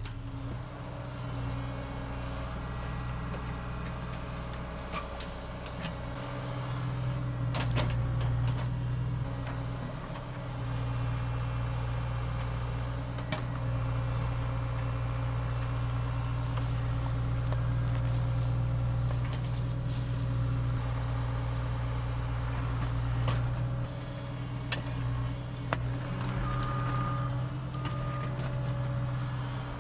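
Cat 304 mini excavator's diesel engine running steadily under work, its level rising and falling, with a few sharp clanks. A reversing alarm starts beeping near the end.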